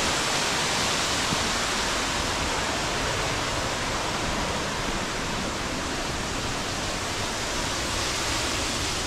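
Steady rushing of a large waterfall, the Upper Düden Falls, heard from inside the cave beside it, easing off slightly over the few seconds.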